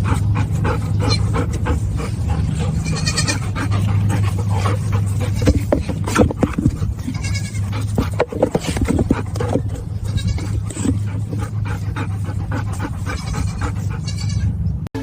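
An animal calling a few times with pitched cries, over a steady low hum and many clicks and knocks.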